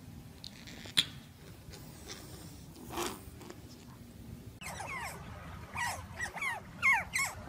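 Otters giving a quick run of about ten high, chirping calls, each one falling in pitch, starting about halfway through. Before them there is only a faint stretch with one sharp click about a second in.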